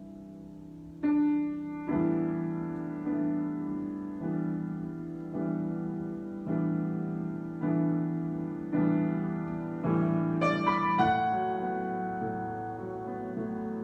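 Solo piano improvisation: after a held chord fades, chords are struck about once a second, with a quick flourish of higher notes about ten seconds in.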